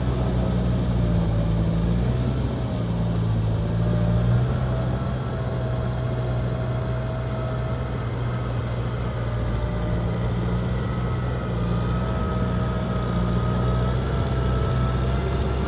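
Heavy diesel engine running steadily, a low drone with a thin whine above it that wavers slightly in pitch.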